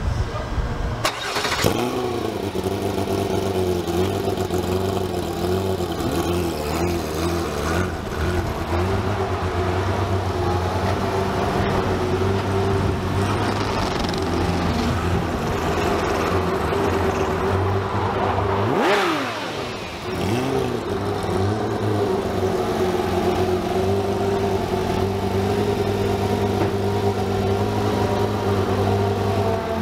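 A car engine running steadily. About two-thirds through, a car passes quickly and its pitch drops as it goes by.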